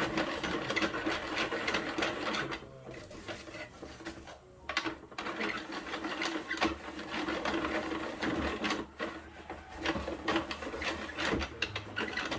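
Plastic toy garbage truck being worked by hand: a fast run of rattling and clicking from its plastic parts over a steady hum, broken by a few short pauses.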